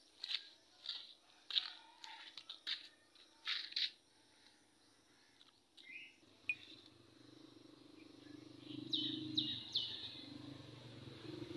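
Birds chirping in short, sharp calls through the first few seconds. From about seven seconds in, a low engine hum builds and holds, with three quick falling chirps over it near the end.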